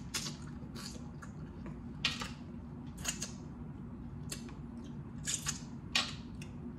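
Close-up eating sounds of a person chewing steamed blue crab: wet mouth clicks and lip smacks about once a second, over a low steady hum.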